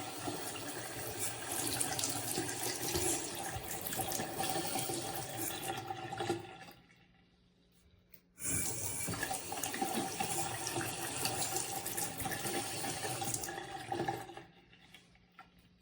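Waterfall bathroom faucet running into a sink basin. It is shut off about six seconds in, turned back on about two seconds later, and shut off again near the end.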